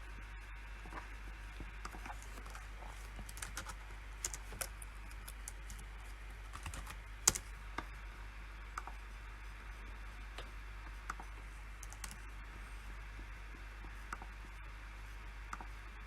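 Typing on a PC keyboard: keystrokes in short, irregular bursts with pauses between them, and one sharper, louder keystroke about seven seconds in.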